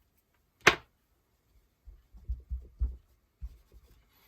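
A single sharp tap or click, then a string of soft low knocks and rubs: craft supplies being handled and set down on the work table.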